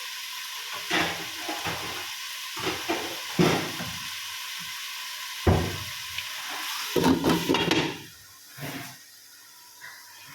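Chicken curry sizzling in a pan while a spatula scrapes and knocks against the pan in several irregular strokes. The sizzle drops away about eight seconds in.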